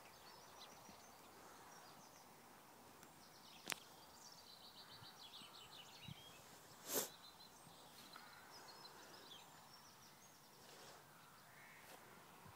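Near silence with faint bird calls: a quick run of high chirps from about four to six seconds in. Two sharp clicks cut through, the louder about seven seconds in.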